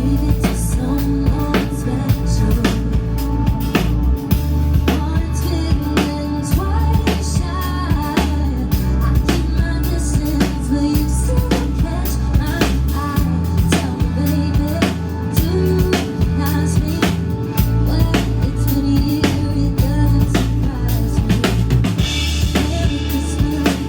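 Band music with a steady drum-kit beat.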